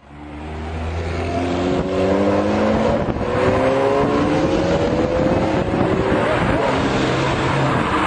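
A car engine accelerating hard over road and wind noise, its pitch climbing steadily as it speeds up. The sound fades in over the first second.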